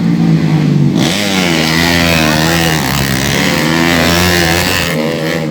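Several 130cc underbone racing motorcycles running hard, their engine pitch rising and falling as they rev and shift. About a second in, a harsher, fuller engine sound comes in, as a bike passes close.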